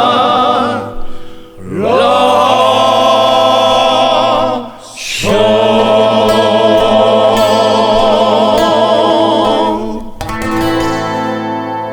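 Male vocal group singing long held notes in harmony with vibrato over acoustic guitar, the refrain of the song; twice the voices break briefly for a breath. About ten seconds in the singing stops and a final chord rings and fades.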